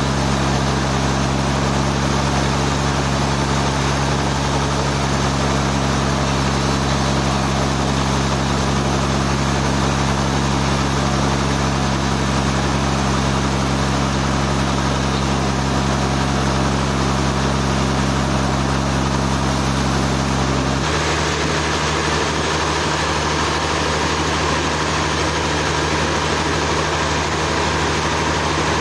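Sawmill machinery running steadily with an even engine hum; about three-quarters of the way through, the hum switches abruptly to a different steady note.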